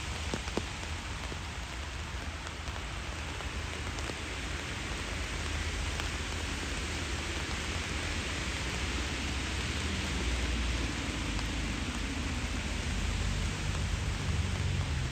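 Steady rain falling and hissing on the street, with a low rumble underneath that swells in the second half and a few faint drop ticks in the first second.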